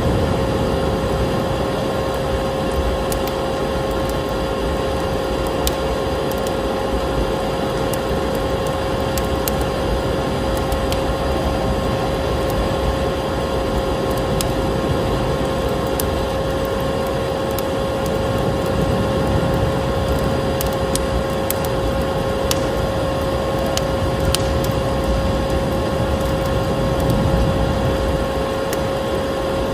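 Vacuum cleaner running steadily with a constant motor whine, mixed with a crackling fireplace: scattered sharp pops and snaps over the hum.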